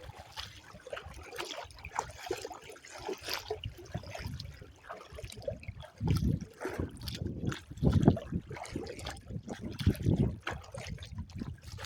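Water splashing and trickling against a small kayak, with wind gusts buffeting the microphone in low rumbles at about six, eight and ten seconds in.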